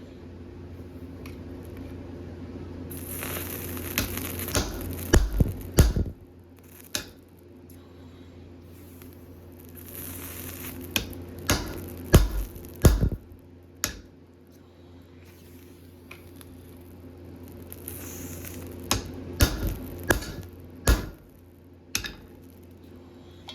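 Hand hammer striking hot steel on an anvil, in three groups of several sharp blows with a few single knocks between, over a steady low hum.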